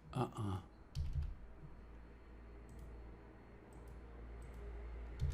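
Computer mouse clicks: a few light, sharp clicks spaced out over several seconds, with a louder knock about a second in, over a low steady hum.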